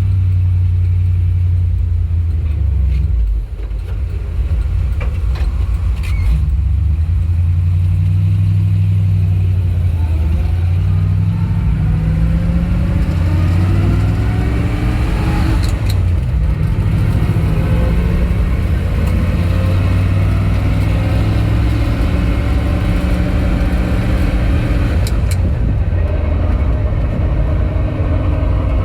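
1962 Dodge D-series truck's engine running under way, with a brief drop about three seconds in, then a rising engine note from about ten seconds in as the truck gains speed, settling into a steady cruise.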